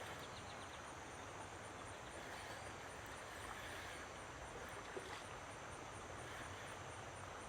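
Faint, steady outdoor background noise, with a single small click about five seconds in.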